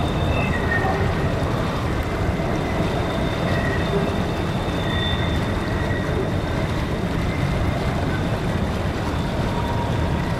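Steady rush of creek water mixed with the rumble of a long freight train rolling across a steel trestle bridge.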